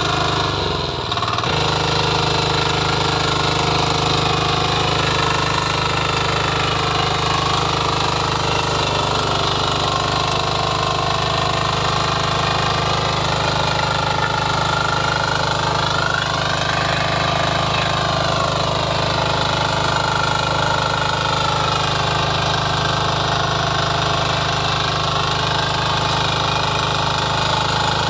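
Power weeder's small engine running steadily with a rapid, hammering beat, its pitch wavering gently up and down.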